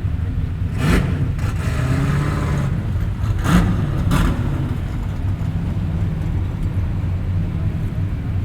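Motor vehicle engine running with a steady low rumble, with three brief sharp noises laid over it in the first half.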